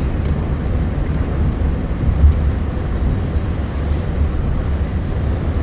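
Steady low rumble of a car driving, heard from inside the cabin: engine and tyre noise with no distinct events.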